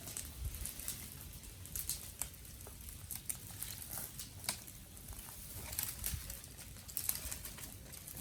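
Wood fire of garden sticks crackling, with irregular sharp pops and ticks several times a second.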